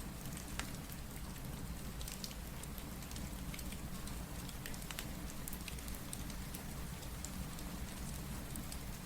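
Steady rain with a fireplace crackling through it: an even rush of rainfall with scattered sharp pops and ticks.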